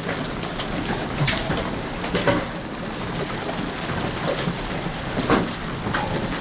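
Heavy rain pouring down, with large hailstones about quarter size striking concrete in sharp, irregular cracks every second or so.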